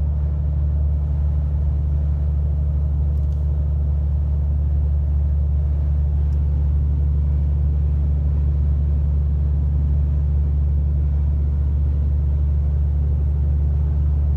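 Ram 2500 Cummins inline-six turbo-diesel pickup cruising, a steady, loud low drone of engine and road noise that does not change.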